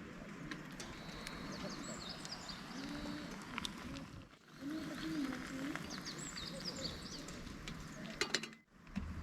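Steady light rain hiss, with bird calls chirping twice and a low wavering animal call underneath; a few sharp taps near the end, and the sound briefly drops out twice.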